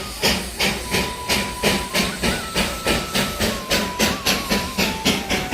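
Darjeeling Himalayan Railway toy train's steam locomotive chuffing, about four exhaust beats a second and quickening slightly, with a thin steady high tone over the beats.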